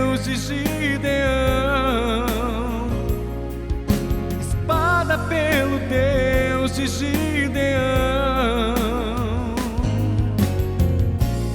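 Gospel song with a male lead voice singing long wavering notes with vibrato and no clear words, over a band with bass, keyboards and drums with cymbal hits. The music starts to fade near the end.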